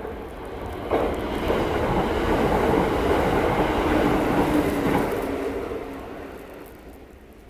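Kintetsu 12200 series limited express EMU passing through the station at speed without stopping. A rush of wheels on rail builds, jumps sharply as the train reaches the platform about a second in, stays loud for about four seconds, then fades as it pulls away.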